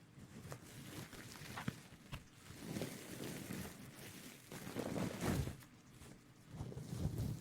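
Soft, irregular rustling and brushing sounds close to the microphone, coming in several swells about a second long with a few faint clicks between them.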